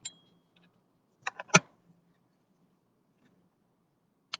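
A few sharp clicks and knocks with near quiet between them: a short cluster about a second and a half in, the last one the loudest, and a single click near the end.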